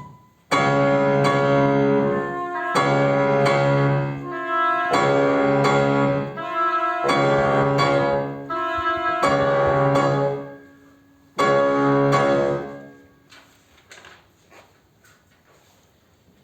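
Live chamber ensemble playing a run of loud held chords, each lasting one to two seconds with short breaks between, starting suddenly about half a second in and dying away about three quarters of the way through.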